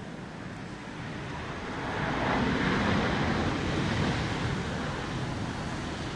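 Airbus A330neo's Rolls-Royce Trent 7000 jet engines on a landing: the noise swells about two seconds in, peaks, then fades slowly as the aircraft passes.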